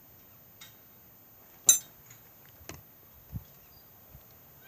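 A few sharp clicks and light knocks against a quiet background, the loudest a single click about a second and a half in.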